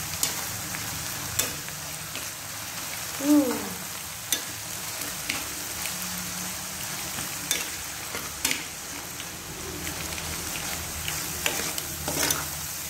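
Chopped onions and chicken gizzards sizzling steadily in a non-stick frying pan while a metal spatula stirs chili sauce through them, the spatula tapping and scraping against the pan now and then. About three seconds in there is a brief sliding pitched sound, the loudest moment.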